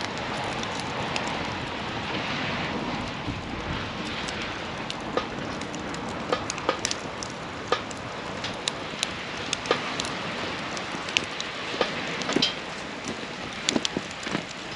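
Wood campfire burning: a steady hiss with frequent sharp crackles and pops, which come thicker and louder in the second half.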